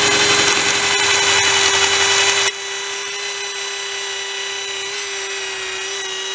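Electric drill drilling out a stuck crosshead screw, its motor whining at a steady pitch. For about two and a half seconds it runs louder with a grinding edge under load, then it drops to a quieter, smoother whine.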